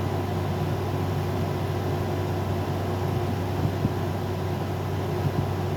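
Steady mechanical hum, a low drone with a faint constant tone above it, unchanging throughout.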